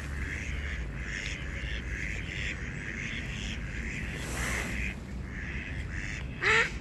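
A flock of ducks quacking and calling. Near the end a louder run of quick quacks starts, several a second.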